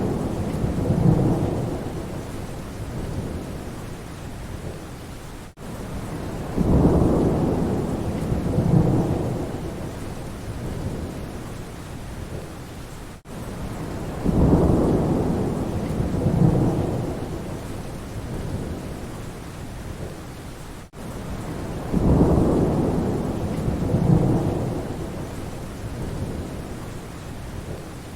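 Steady rain with low rolling thunder rumbles that swell and fade about every seven and a half seconds. The same short recording repeats in a loop, with a brief dropout at each seam.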